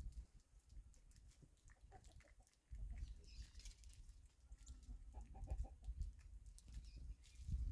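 Faint, short bird calls scattered through, with a low rumble that comes in about three seconds in and stays.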